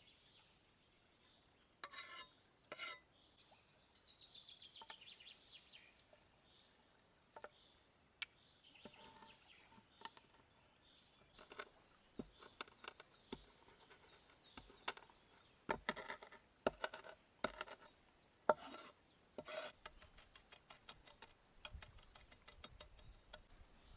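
Cookware and utensils clinking and knocking, with scattered sharp taps that grow busier in the second half and end in a quick run of small clicks.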